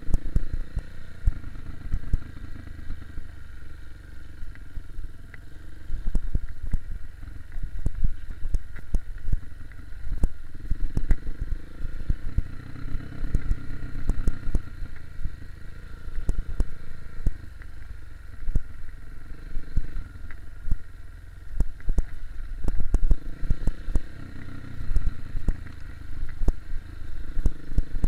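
KTM 250 EXC-F enduro motorcycle's single-cylinder four-stroke engine being ridden, swelling and easing off every few seconds with the throttle. Frequent sharp knocks and clatters run through it.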